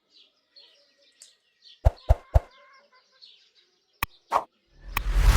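Birds chirping faintly, then sharp knocks: three quick ones, two more a couple of seconds later. A loud rushing noise with a heavy low rumble comes in near the end.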